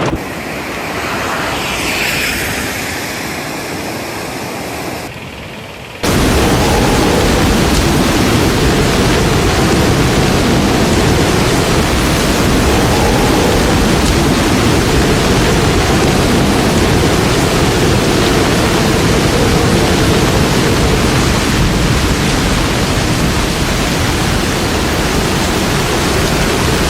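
Loud, steady rushing noise with much low rumble that starts suddenly about six seconds in and cuts off abruptly at the end; before it, a quieter stretch of noise.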